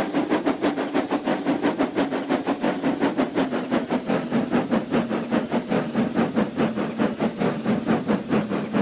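Steam locomotive chuffing at a steady, quick pace, about six beats a second, over a steady hum that drops slightly in pitch.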